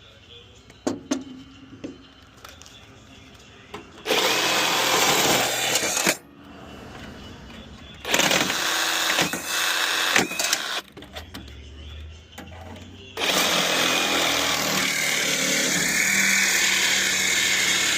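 A handheld power tool run in three bursts of two to five seconds each, with short pauses between, working on a tankless water heater as it is broken down for scrap.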